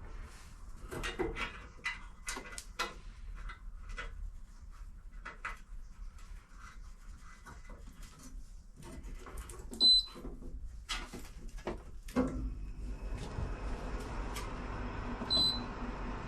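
Scattered clicks, knocks and rattles of parts and tools being handled while working on a car. A short, high ringing tone sounds about ten seconds in and again near the end.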